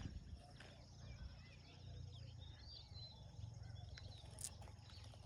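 Faint outdoor ambience: small birds chirping with short, sliding calls, over a steady high insect trill and a low wind rumble.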